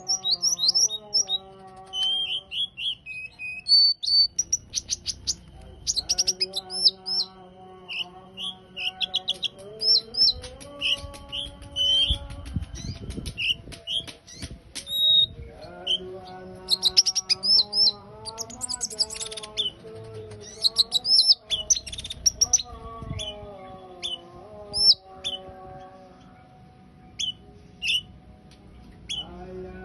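A songbird singing energetically, a rapid string of sharp chirps, trills and whistled notes with hardly a pause, over background music.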